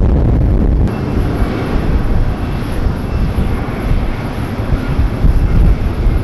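Jet airliner's engines rumbling loudly as it passes close by, a steady deep roar with a noisy hiss above it.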